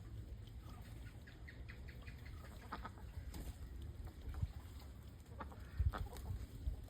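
Ducks calling in short, clustered quacks, heaviest in the first half, with a few sharp splashes of water near the end as they bathe.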